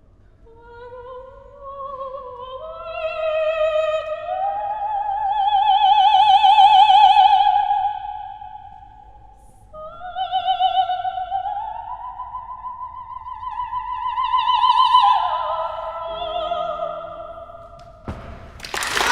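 Operatic soprano singing long held notes with wide vibrato. The line climbs in steps to high sustained notes and then falls away. Applause breaks out right at the end.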